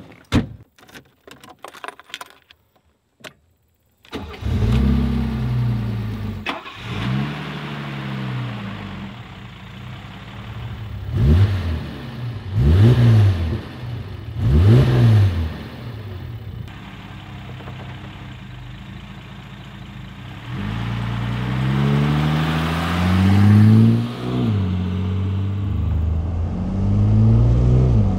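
A Mercedes-Benz 280SL's 2.8-litre straight-six starts about four seconds in, after a few sharp clicks, and settles to idle. It is blipped three times in quick succession, then pulls away, the engine pitch rising through a gear change near the end.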